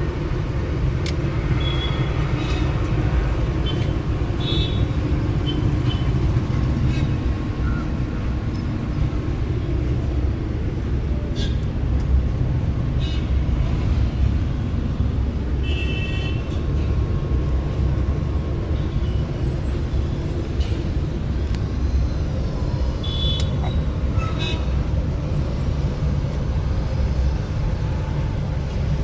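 Steady low rumble of road traffic, with short high-pitched toots now and then.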